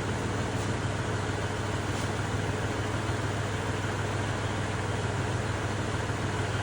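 Kubota tractor engine running steadily at low revs, a constant low hum.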